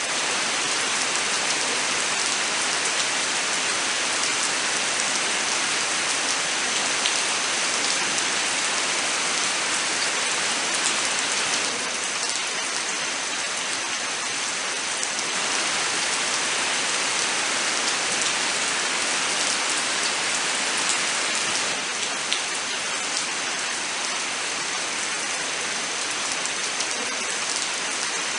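Steady rain falling: a dense, even hiss with many small individual drop ticks. It gets slightly quieter about twelve seconds in.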